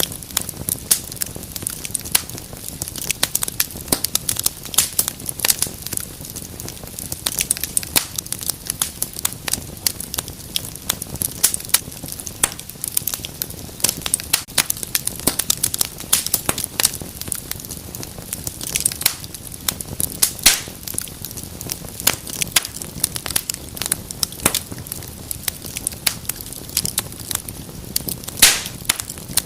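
Wood fire burning in a fireplace: dense, irregular crackling and snapping over a low steady hiss, with a few louder pops.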